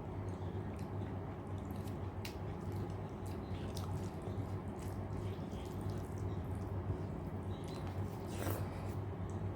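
Close-miked eating of rice and dal: wet, sticky mouth and food sounds with scattered small clicks, and a brief swish near the start and again about eight and a half seconds in, over a steady low hum.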